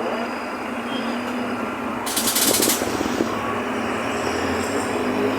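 Mercedes-Benz OF-1519 BlueTec 5 city bus under way, its diesel engine running steadily with body and road rattle. About two seconds in comes a short hiss of compressed air from the bus's air system.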